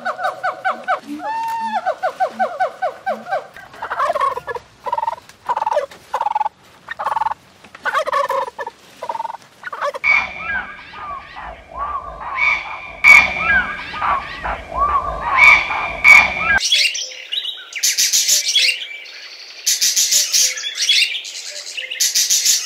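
A changing run of animal calls: a quick series of repeated pitched calls at first, then irregular calls, then different chirpy calls. In the last several seconds comes dense, high-pitched chirping and chattering from a group of budgerigars.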